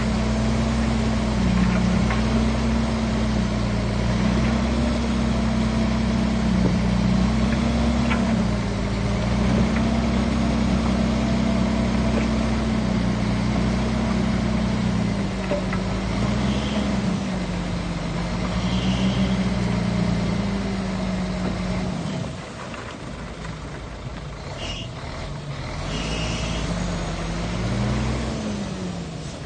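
Shantui bulldozer's diesel engine working under load, its pitch wavering up and down as the load changes. About 22 seconds in it drops back and runs quieter for a few seconds, then rises and falls once more near the end, with a few short high squeaks in the second half.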